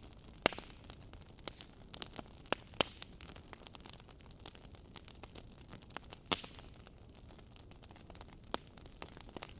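Wood logs burning in a fireplace, crackling: irregular pops and snaps over a soft steady hiss, with two sharper pops, one about half a second in and one just after six seconds.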